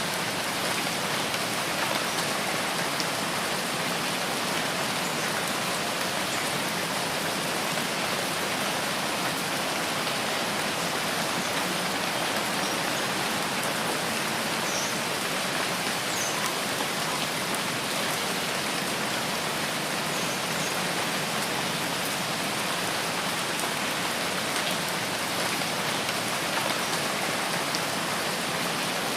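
Steady, even rain falling on foliage in a rainforest, with a few faint high chirps here and there.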